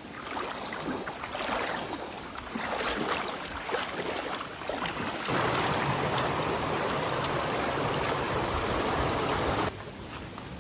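Mountain stream water rushing and splashing, uneven at first, then a louder steady rush of water from about halfway that cuts off suddenly near the end.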